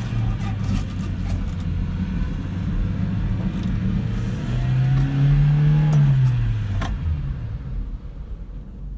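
1991 Subaru Sambar kei truck's 660 cc four-cylinder engine running, its pitch settling lower, then rising again about five seconds in and dropping back. The engine sound fades toward the end, with a few sharp clicks along the way.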